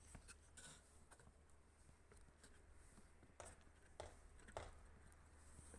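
Near silence with a low steady hum and a few faint knocks, about three in the second half.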